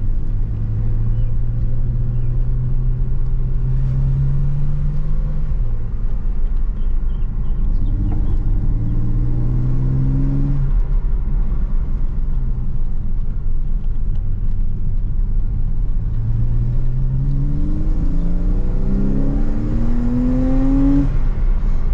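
Porsche Cayman R's 330-hp 3.4-litre flat-six heard from inside the cabin, accelerating. Its note climbs and drops back at each upshift, several times, with the highest pull near the end.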